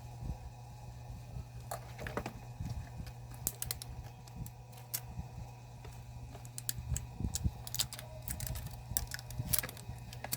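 Irregular light clicks and taps from handling a small Bluetooth soundbox speaker under repair, over a steady low hum.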